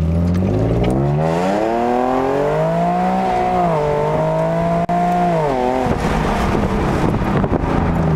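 Infiniti G37S's 3.7-litre V6 through an MXP exhaust with Berk test pipes, accelerating at full throttle: the engine note rises steadily for about three seconds, dips briefly about halfway through, holds high, then falls away suddenly near six seconds in. The dip fits the hesitation between first and second gear that the driver felt, which he puts down to the new parts not yet being broken in.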